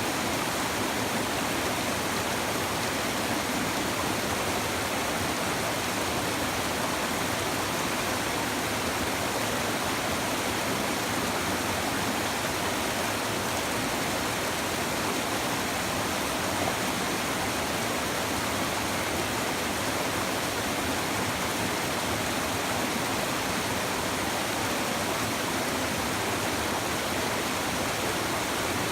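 Shallow river water babbling and rushing steadily over rocks, a continuous even wash with no breaks.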